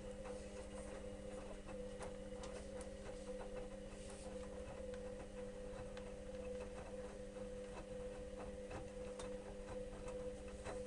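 Electrolux EWS 1045 washing machine running a wash: a steady motor hum as the drum turns, with many irregular small clicks and ticks over it.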